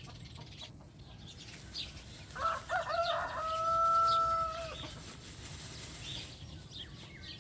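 A rooster crows once, a few broken notes running into a long held note, about two seconds in all.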